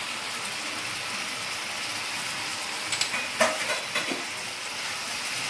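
Chicken pieces frying in oil in a pan with a steady sizzle, while a steel spoon stirs them; a few clinks and scrapes of the spoon against the pan come about three to four seconds in.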